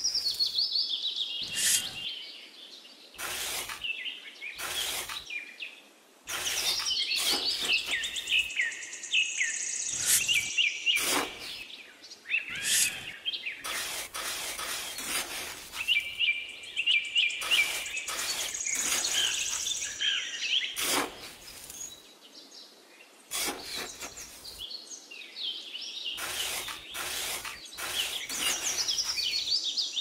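Birds chirping and singing, with repeated short scrapes and crunches of a small trowel digging into damp sand.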